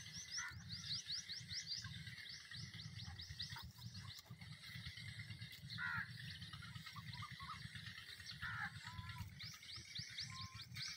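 Birds calling: rapid runs of high, thin chirps, about five a second, near the start and again near the end, with a few lower single chirps in between, over a faint low rumble.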